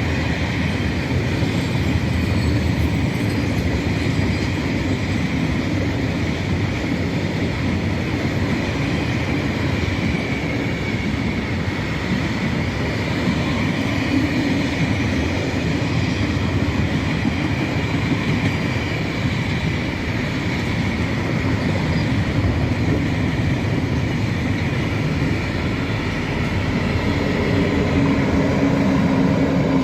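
Freight train rolling along the track: a steady rumble of wheels on rails with a thin high squeal from the wheels.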